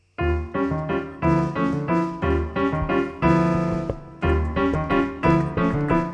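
Jazz piano playing short, rhythmic chords, with a brief pause about four seconds in.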